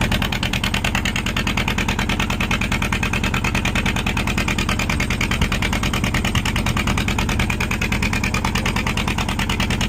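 Fishing boat's engine running steadily close by, with a rapid, even pulse.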